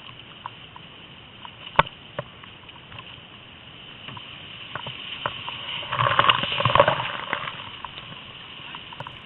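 Outrigger canoe out on the water: steady splashing with scattered sharp knocks, growing louder about six to seven seconds in, with some voices.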